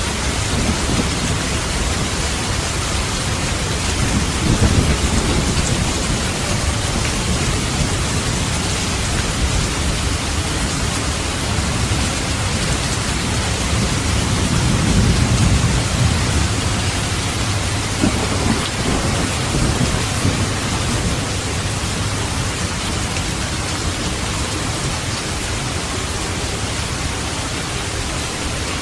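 Thunderstorm: steady rain with low rolling thunder that swells twice, about five seconds in and again about halfway through.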